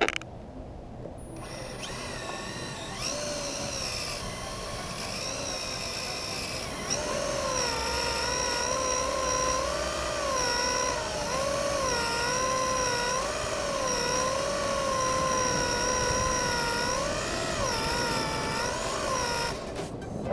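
Electric drive motor and drivetrain of a Team Associated DR10 Pro RC drag car whining as the throttle is worked to spin and heat up the tires, the pitch swinging up and down over and over. It starts about a second and a half in, grows louder a few seconds later and cuts off shortly before the end.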